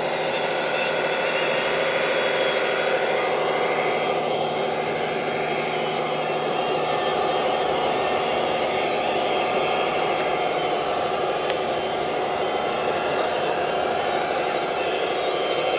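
Radio-controlled model construction vehicles running with a steady, even engine-like drone.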